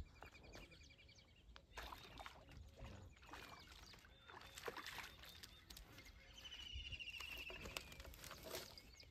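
Faint outdoor ambience: birds calling in short rapid trills, clearest at the start and again about seven seconds in, over faint scattered rustles and clicks.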